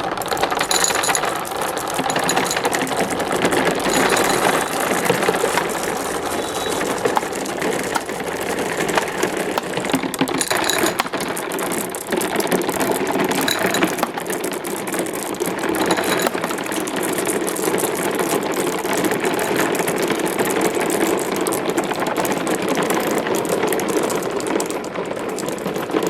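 Many marbles rolling and clattering along a marble run's tracks, a dense, continuous rattle of small clicks.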